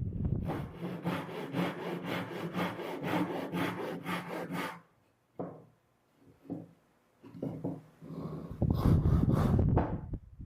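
Hand saw cutting a cedar board in quick, even strokes, about four a second; after a pause come a few single short strokes, then another fast run near the end.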